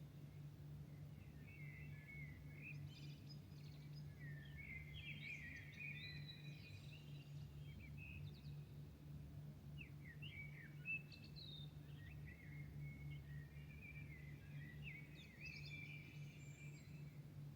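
Several songbirds singing faintly in a dawn chorus, scattered chirps and short trills with gaps between, over a steady low city hum. A single brief click about eleven seconds in.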